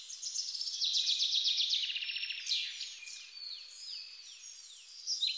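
Songbirds singing: quick high chirps, a fast rattling trill about a second in, then a run of downward-slurred whistled notes, with rapid chirping again near the end.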